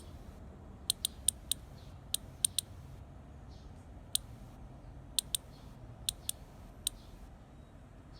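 A cicada giving about a dozen sharp, high single clicks at irregular intervals, some in quick pairs and threes, over a faint low hum.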